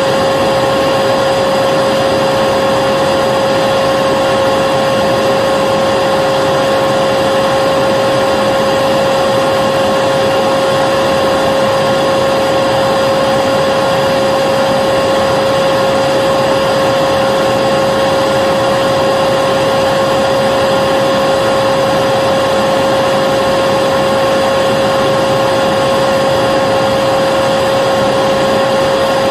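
Vacuum cleaner motor running continuously at a constant speed: a steady rushing hiss with a high whine.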